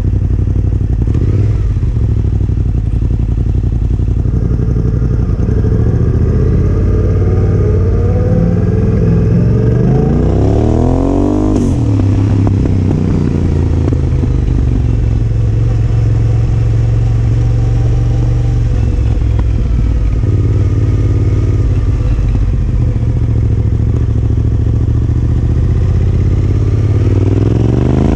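Yamaha Ténéré 700 parallel-twin engine running through a Yoshimura R-12 exhaust while riding, mostly steady with the engine pitch swinging up and down as it speeds up and eases off, most strongly about ten seconds in and again near the end.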